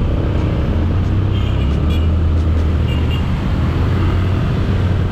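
Motorcycle engine running with a steady low hum amid road traffic, picked up by a helmet or bike-mounted action camera's built-in microphone. A few faint short high chirps sound about a second and a half to three seconds in.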